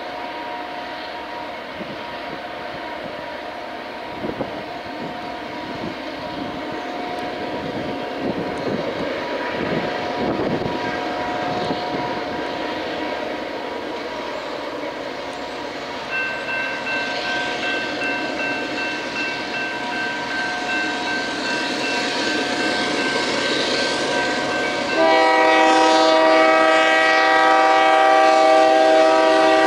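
Union Pacific freight train approaching, its diesel locomotives getting steadily louder. About 25 seconds in, the lead locomotive blows its air horn, a loud chord held for about four and a half seconds.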